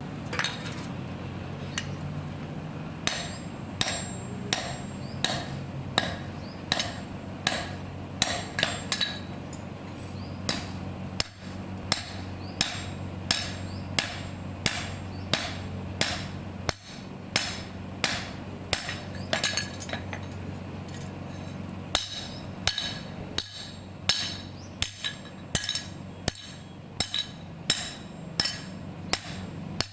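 A blacksmith's hammer striking metal while forging an axe: sharp ringing blows, about one and a half a second, with a short pause partway through, over a steady low hum.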